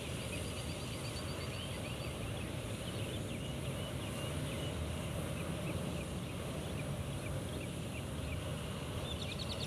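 Wind rumbling on the microphone, with a bird giving repeated short chirps throughout and a quick run of higher notes near the end.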